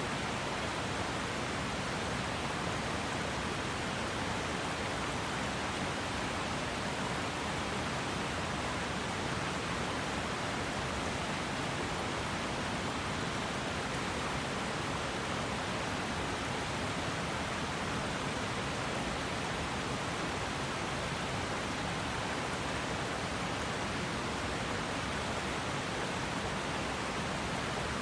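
River water rushing steadily, an unbroken wash of flowing water.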